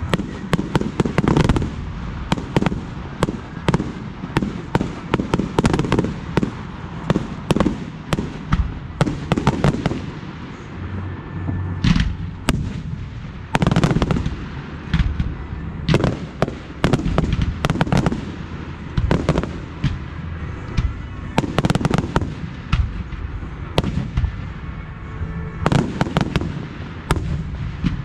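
Fireworks display firing in rapid volleys: dense strings of sharp bangs and crackles, several a second, with heavier clusters of bursts about 12 s and 22 s in.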